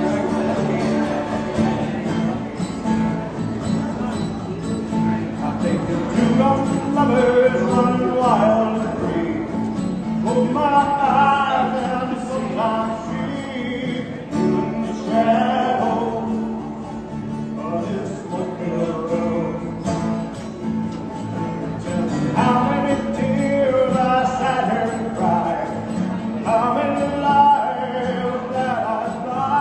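Country song with a man singing, accompanied by strummed acoustic guitar; sung phrases come and go over steady playing.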